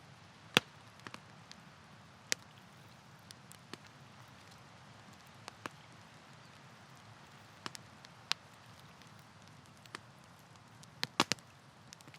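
Wood campfire crackling: sharp, irregular pops and snaps over a low steady hiss. The loudest pop comes about half a second in, and a quick cluster of pops comes near the end.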